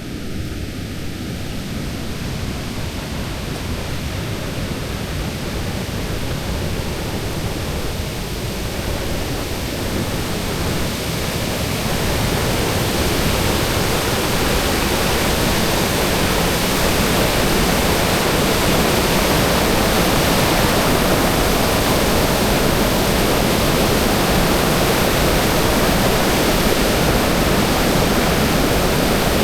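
A steady rushing noise with no distinct events. It grows louder over about the first twelve seconds, then holds steady.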